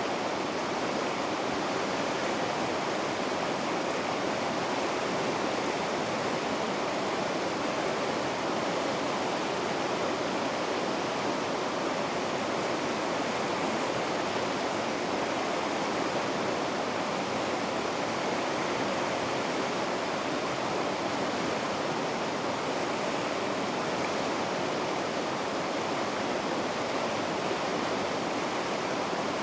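River rapids rushing in a steady, unbroken roar of water.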